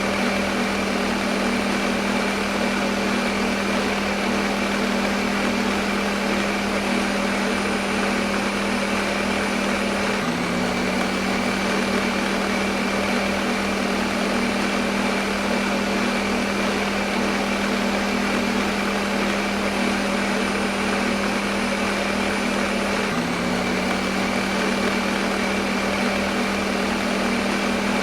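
Electric blender motor running continuously at a steady speed, a steady whirring hum. The pitch of the hum dips briefly twice.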